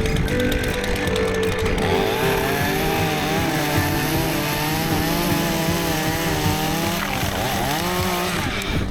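Stihl two-stroke chainsaw running at high revs, its pitch wavering as it works through wood, then falling away as the throttle is let off near the end. Background music is heard in the first couple of seconds.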